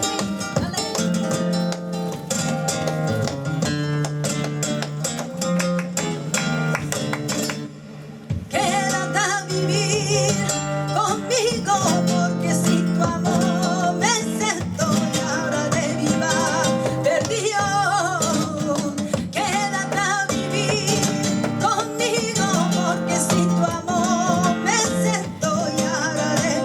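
Flamenco tangos: a flamenco guitar strumming with sharp rasgueado attacks, then after a short break about a third of the way in, a singer's cante with wavering, ornamented lines over the guitar.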